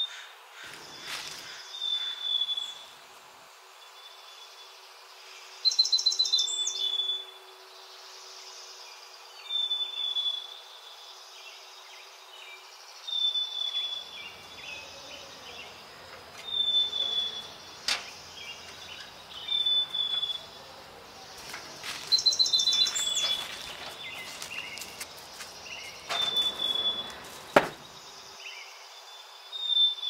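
A bird calling: a short, high, slightly falling chirp repeats about every three seconds, with a quick trill twice. A few sharp clicks cut in, the loudest near the end.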